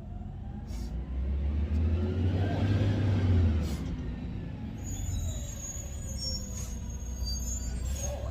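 Garbage truck engine running, revving up and easing back down a couple of seconds in, with thin high squeals later on.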